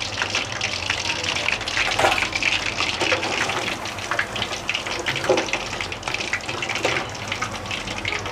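Chicken leg pieces frying in hot oil: a steady sizzle full of fine crackles.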